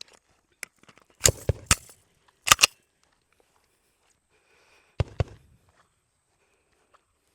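Glock 19X 9mm pistol firing: three quick shots, another a moment later, then a pair of shots a couple of seconds after.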